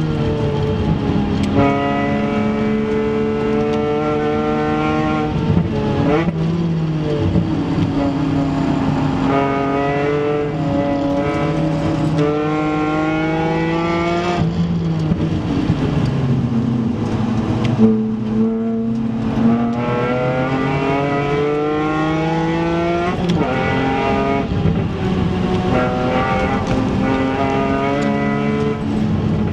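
BMW Z4 M Coupé's 3.2-litre straight-six engine, heard from inside the cabin and driven hard. Its note climbs steadily in pitch and then drops sharply several times over, with each gear change or lift.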